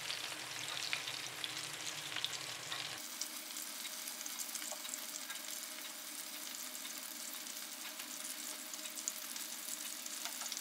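Chicken breast fillets frying in hot oil in a pan: a steady sizzle with fine crackles.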